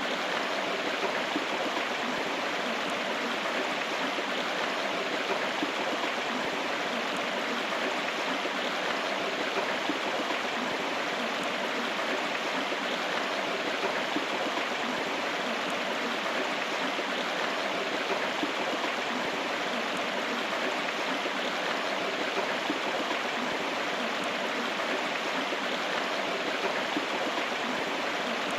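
A river running steadily, an even rushing of flowing water with no pauses.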